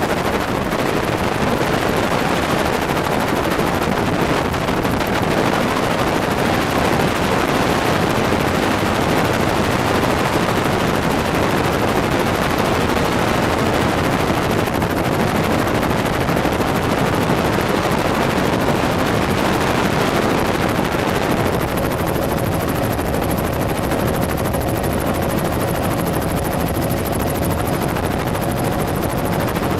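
Helicopter in flight, heard from on board: loud, steady rotor and engine noise. A faint steady tone comes in about two-thirds of the way through.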